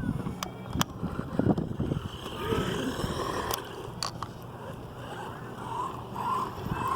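Hosim S911 electric RC truck running over the ground, its motor and drivetrain noise mixed with scattered clicks and knocks from the chassis and tyres. It doesn't sound as strong, a sign that its battery is running down.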